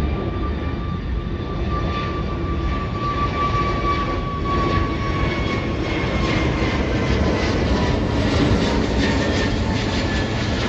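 Jet airliner's engines at take-off power: a steady loud noise with a high whine that slowly drops in pitch, growing a little louder in the second half.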